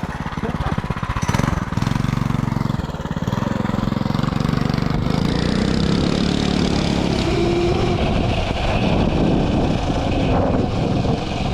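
Modded 212cc single-cylinder engine of an FRP minibike running steadily, a rapid even chug of firing pulses.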